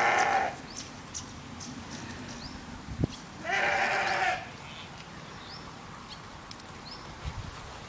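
A goat or sheep-type farm animal bleating: the end of one loud bleat at the start, then a second bleat about a second long midway. Faint, short, high chirps sound now and then, and there is a single click just before the second bleat.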